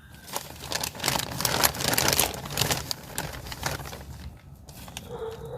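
Dry peat moss being broken up and crumbled by hand, a dense crackling rustle that is loudest in the first couple of seconds and then dies down.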